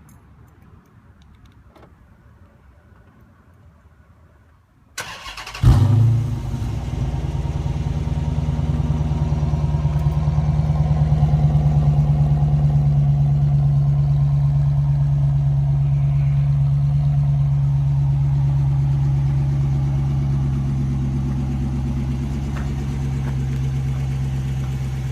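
After about five seconds of near-quiet, a 2013 Dodge Charger R/T's 5.7-litre Hemi V8 cranks briefly and fires with a loud flare, then settles into a steady idle through an SLP Loudmouth II aftermarket exhaust.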